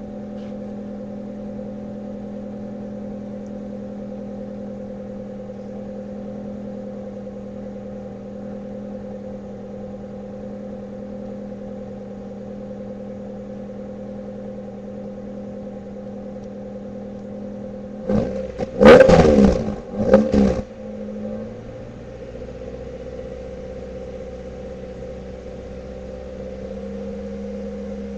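1995 Toyota Corolla's 1.8-litre four-cylinder with a straight-pipe exhaust idling steadily as it warms up, then revved sharply twice about eighteen seconds in, the first rev longer, before settling back to idle.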